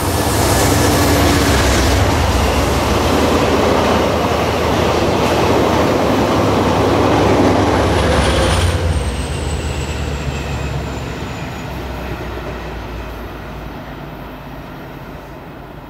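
Amtrak Cascades passenger train running past on a curve: wheels rumbling on the rails over a low engine hum, loud for the first half, then fading away as it moves off. Around the middle a thin, high wheel squeal slides down in pitch.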